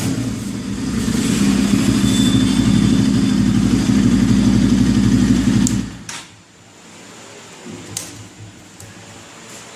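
Bajaj Pulsar AS200's single-cylinder engine idling through an aftermarket sport exhaust, its pitch settling down from a rev, then shut off about six seconds in. A light click follows near the end.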